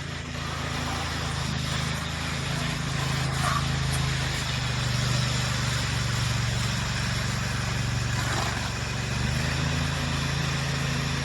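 Small petrol engine of a walk-behind power trowel running steadily at constant speed, a low even hum over the scrape of the trowel on fresh concrete.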